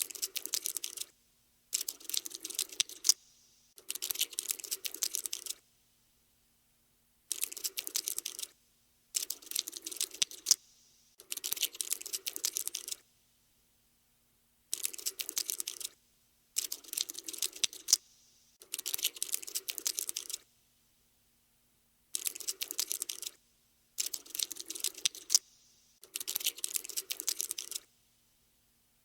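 Cockroach scuttling sound effect: rapid dry skittering clicks in bursts of about a second each, separated by short pauses, twelve bursts in all.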